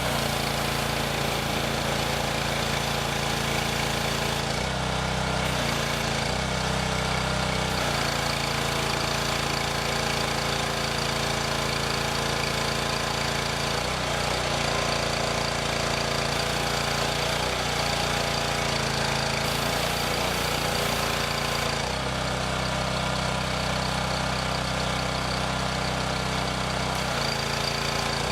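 An engine running steadily, its note shifting briefly a few times as if under changing load.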